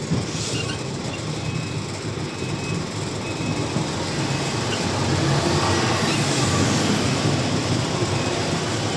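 Truck engine running with a steady rumble and cab rattle, heard from inside the cab as the truck maneuvers, growing a little louder about four seconds in.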